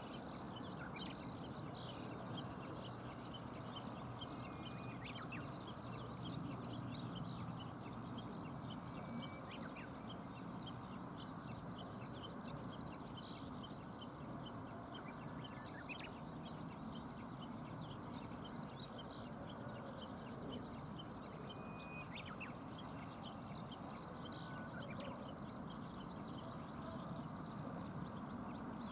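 Steady rush of river water, with many short chirps and a few brief whistled notes from small birds scattered throughout.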